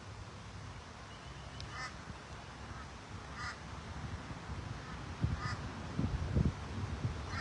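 Waterfowl honking at a lake: three short calls about two seconds apart, with low rumbling bursts on the microphone in the second half.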